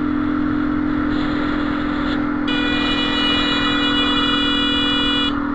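Motorcycle engine running at a steady speed under road and wind noise. About halfway in, a horn sounds as one steady blast for about three seconds, then stops.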